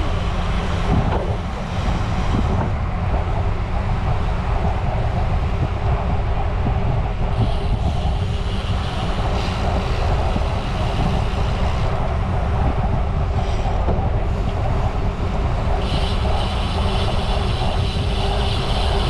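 Wind buffeting the microphone of a camera riding on a moving bicycle: a steady, loud, low rumble mixed with tyre and road noise. A brighter hiss joins near the end.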